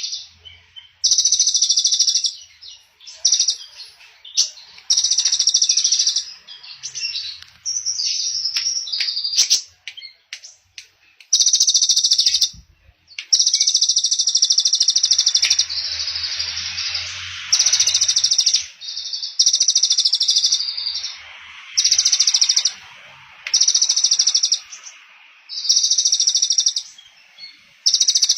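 A small songbird repeating a high, rapid trill of about a second at a time with short gaps between, the trilling "trotol" song used to train caged songbirds. A few short scattered chirps come between the trills in the first third.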